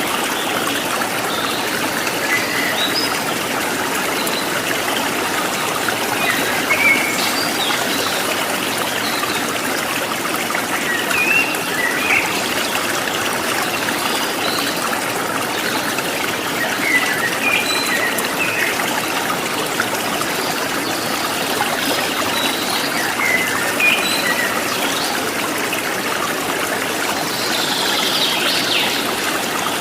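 Stream water running and trickling steadily, with short bird chirps scattered over it and a brief flurry of calls near the end.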